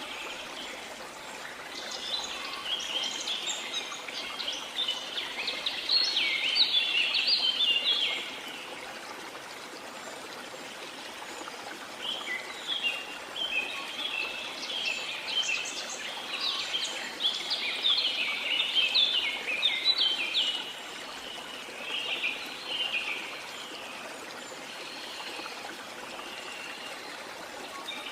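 Rainforest ambience: a steady hiss of falling water under bouts of rapid, high bird chirping. One bout runs from about two to eight seconds in, and a longer one fills the middle.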